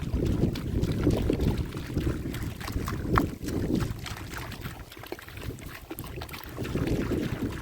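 Wind rumbling on the microphone, with a few light knocks, the sharpest about three seconds in.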